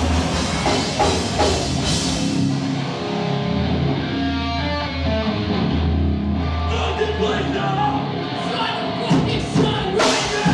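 Live heavy rock band playing loud: guitar and bass holding long low notes, with drum and cymbal hits coming in near the end.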